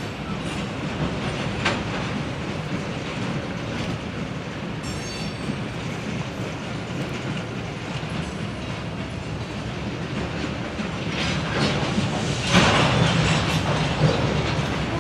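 Railroad cars rolling past on the track, wheels clicking over rail joints, with a brief high wheel squeal about five seconds in. The rolling noise swells loudest about twelve seconds in.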